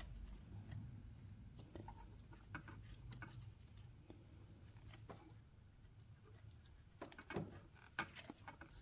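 Near silence with faint, scattered small clicks of metal hand tools (a curved pick and needle-nose pliers) working a hose clamp on a stuck heater hose.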